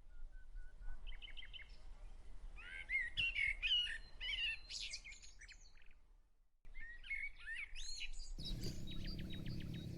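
Wild birds singing: bursts of chirping, warbling phrases with quick rising and falling pitch, cut off by a brief dropout about two-thirds through and then resuming. Near the end a low steady hum comes in under a fast trill.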